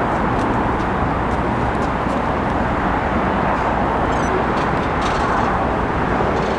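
Steady outdoor city noise: an even rush of traffic with no single event standing out.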